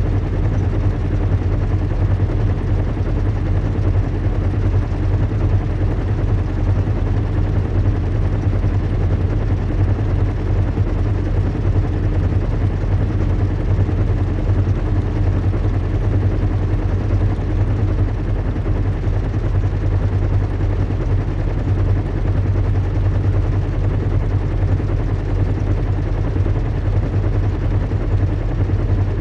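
Recreated airship-in-flight ambience: a deep, steady low rumble and hum of a large airship's engines over an even rushing noise, unchanging throughout.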